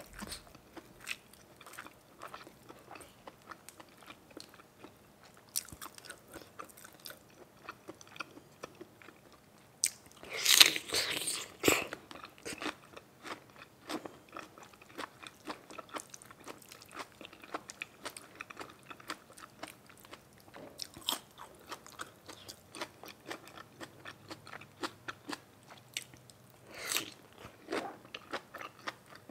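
A person chewing and biting into crunchy food close to the microphone, with many small chewing clicks. There is a louder crunching bite about ten seconds in and another near the end.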